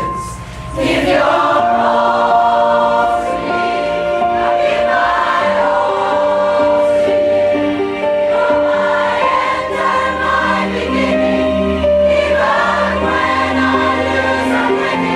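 Choir singing a song together, several voice parts holding long notes in harmony.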